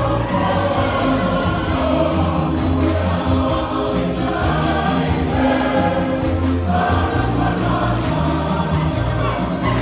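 Church choir singing a gospel hymn in parts, with sustained held notes over a low bass line.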